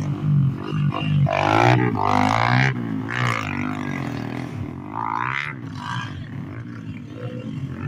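Dirt bike engines revving, their pitch rising and falling as the throttle is opened and closed.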